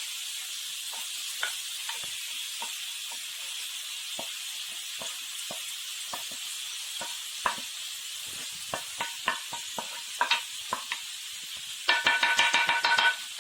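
Peppers, onion and calamari sizzling in olive oil in a large frying pan: a steady hiss with scattered pops and crackles that come more often in the second half. Near the end a utensil stirs the pan with a quick rattling scrape.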